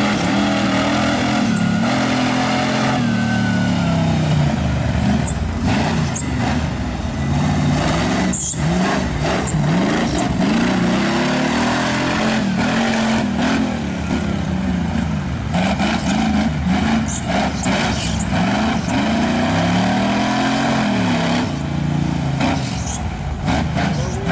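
Off-road race buggy's engine revving hard, its pitch climbing and dropping over and over as the throttle is worked during a run, with occasional knocks.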